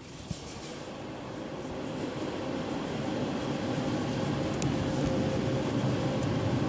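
Touch-free car wash's air dryer blowers rushing, heard from inside the car, getting steadily louder.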